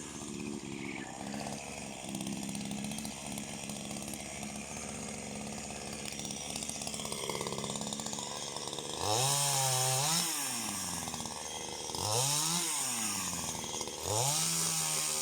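Chainsaw idling, then revved up and let back down three times in the last six seconds.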